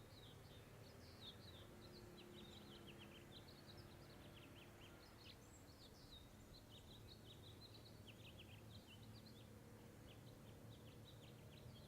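Near silence with faint birds chirping in the background: many short, quick chirps throughout, over a low steady hum of room tone.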